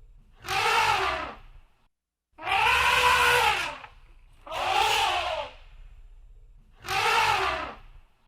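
Elephant trumpeting: four separate calls, each about a second long and rising then falling in pitch, the second one longer than the others.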